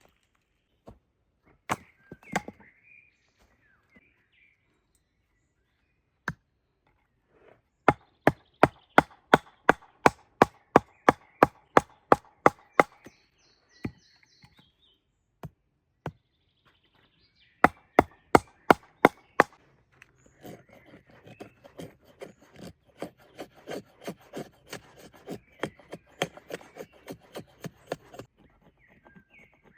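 Wood being chopped with a hand tool: runs of sharp blows at about three a second, broken by short pauses, then a faster run of lighter strikes over the last several seconds.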